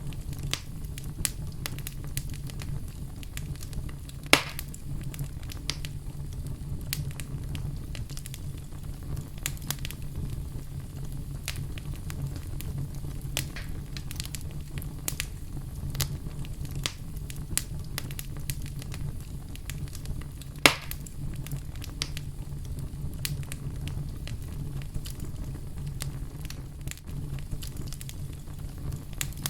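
Wood fire burning in a fireplace: a steady low rumble of flame with frequent small crackles and two louder pops, about four seconds in and about twenty-one seconds in.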